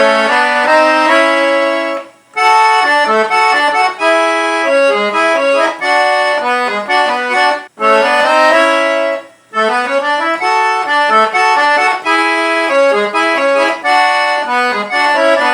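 Piano accordion playing a lively melody with two notes sounding together, the right-hand keyboard adding a harmony note under each melody note, with short breaks between phrases about two, eight and nine and a half seconds in.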